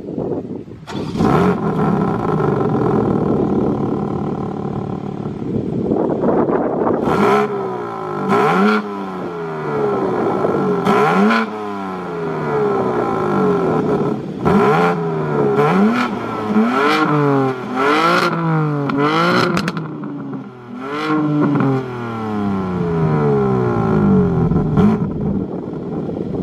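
BMW M4 Competition's S58 twin-turbo inline-six, fitted with SSR downpipes, runs steadily for about six seconds, then is revved again and again, about ten quick blips, each rising and falling, with sharp cracks as the revs drop.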